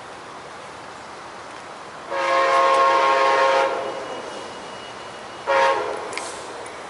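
Locomotive air horn sounding a chord: one long blast of about a second and a half, then a short blast a couple of seconds later, over a steady rushing noise.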